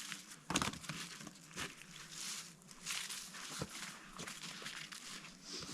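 Irregular rustling and crackling with a few sharp knocks, the loudest about half a second in: someone moving about and handling things on wet ground.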